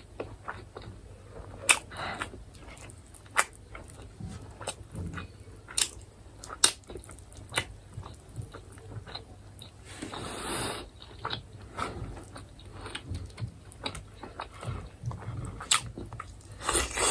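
Close-up chewing and biting of chicken, with irregular wet mouth clicks and smacks, and a short rushing noise about ten seconds in.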